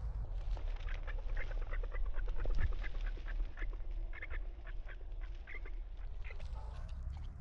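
Birds calling in a quick, uneven run of short calls that thins out toward the end, over a low rumble of wind on the microphone.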